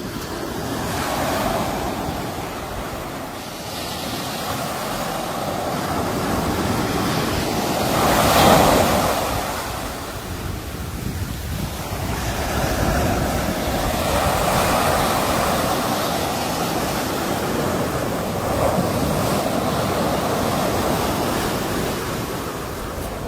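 Sea waves breaking and washing on a shore, the surf swelling and ebbing in slow surges, with the biggest wave breaking about eight seconds in. Some wind noise on the microphone.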